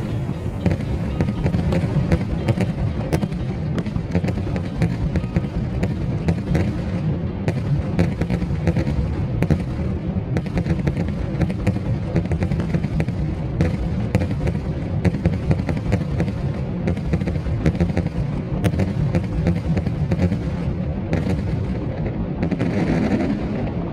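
Fireworks going off without pause: a dense run of sharp bangs and crackles over a continuous low rumble.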